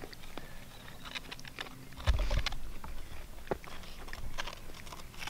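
A man chewing a mouthful of hot dog close to the microphone, with small, sharp mouth clicks. About two seconds in, a low rumbling thump comes as the handheld camera is moved.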